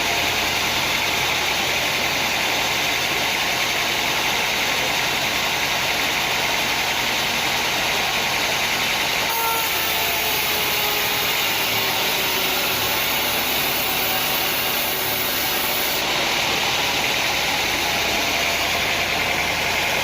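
Sawmill machinery running steadily: an even, unbroken engine-like drone with a strong hiss.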